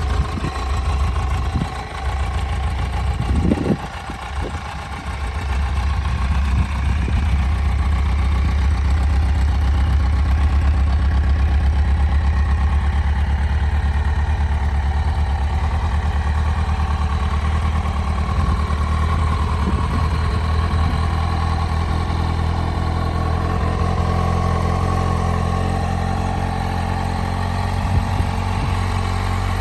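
2010 Kawasaki Z750's inline-four engine idling steadily through its stock exhaust shortly after a cold start. A few brief knocks sound in the first few seconds.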